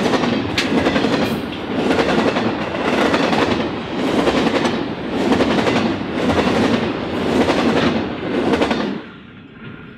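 Container wagons of a freight train rolling past, the wheels clattering in a rhythm of about one beat a second. The sound drops away about nine seconds in as the last wagon passes.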